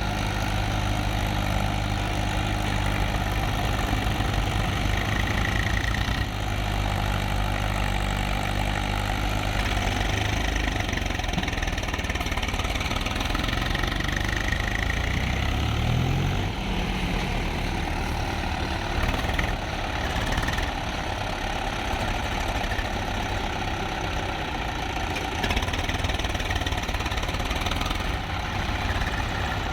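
Tractor engine running at a steady idle, its revs rising about halfway through and staying rougher afterwards.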